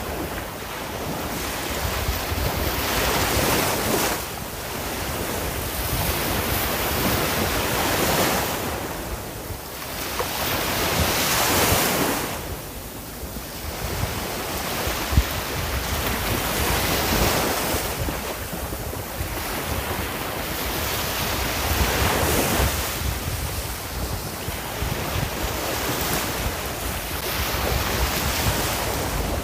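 Sea waves breaking and washing in, the surf swelling and falling back every few seconds. There is one sharp click about halfway through.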